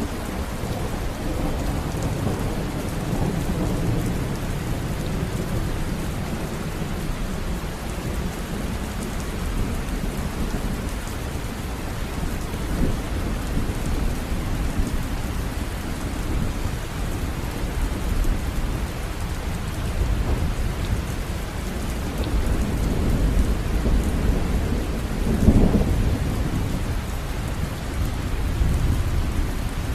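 River water running, a steady full rushing with a deep low rumble, and a brief louder surge late on.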